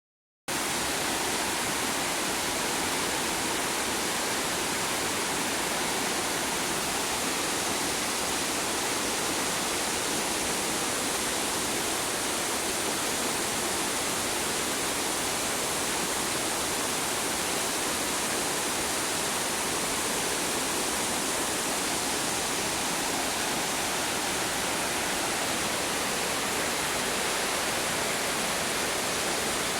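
Steady rush of the Río Celeste's flowing water, even and unbroken, beginning about half a second in.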